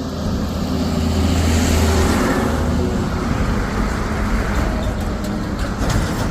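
Road traffic noise: a steady rush with a vehicle engine's low hum that fades after about two seconds, and a few short knocks near the end.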